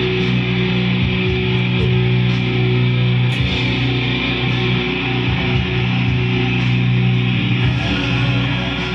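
Electric guitar through a Line 6 Pod HD500X playing a B minor chord with an F sharp in the bass, held ringing over a backing track, easing off near the end.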